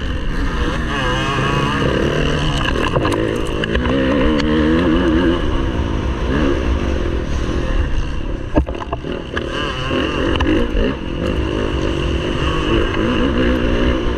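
MX1 motocross bike engine racing, its pitch rising and falling over and over with throttle and gear changes, and a few sharp knocks and clatters from the bike, one louder about eight and a half seconds in.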